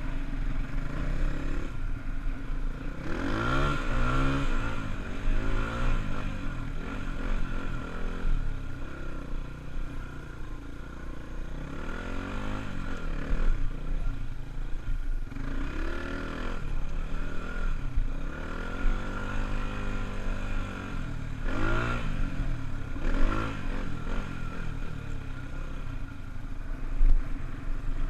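Honda dirt bike engine being ridden, revving up and dropping back again and again, its pitch rising and falling every few seconds.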